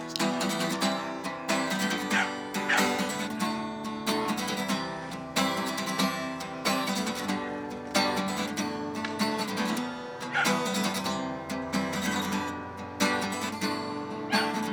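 Guitar strumming chords in a steady rhythm: the instrumental intro of a song, before any singing.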